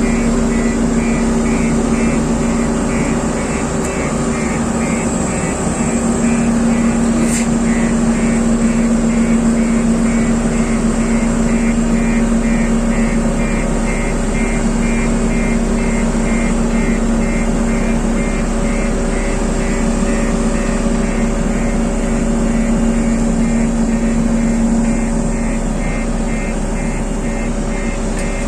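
JCB road roller's diesel engine running steadily under load, with a regular high-pitched pulsing over it throughout.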